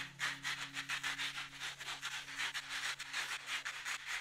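Wooden salt mill grinding coarse rock salt: a quick, even run of gritty rasps, about five a second, as the mill is twisted.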